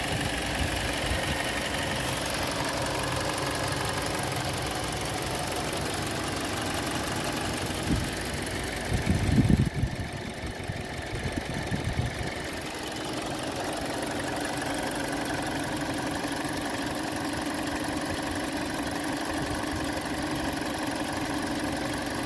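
Hyundai G4NA 2.0-litre inline-four engine idling steadily at 45,300 km, just after a service. About eight seconds in there is a brief louder low rumble, and then the steady running returns.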